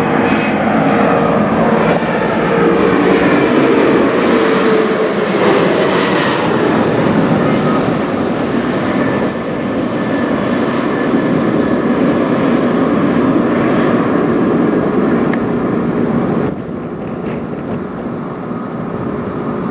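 Mitsubishi CRJ900LR regional jet's twin rear-mounted turbofans passing low overhead: a loud jet rush that swells to a peak about five seconds in, with a tone falling in pitch as it goes by, then fades and drops off sharply near the end.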